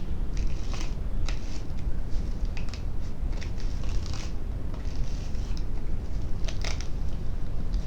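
Curly hair being detangled with styling cream worked through it: irregular crackling and rustling of the strands.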